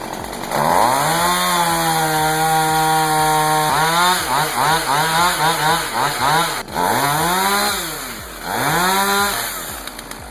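Chainsaw revved up to full throttle and held for about three seconds, then blipped rapidly several times, revved twice more and let drop back, as it cuts into a back-leaning tree that pinches the chain.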